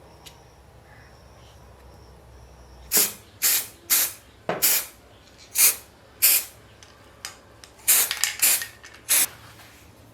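About ten short, loud hissing bursts in quick, irregular succession, starting about three seconds in.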